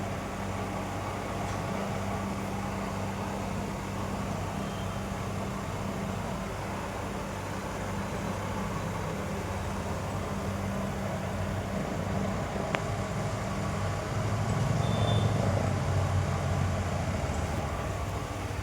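A steady low mechanical hum, growing a little louder about fourteen seconds in, with a single sharp click shortly before.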